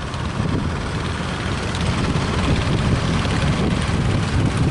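Steady low rumble of fishing-boat engines running.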